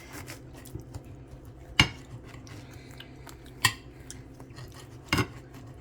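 Three sharp clinks of a knife and dishes, spaced about a second and a half apart, as a sandwich is cut in half and handled on a plate, over a faint low hum.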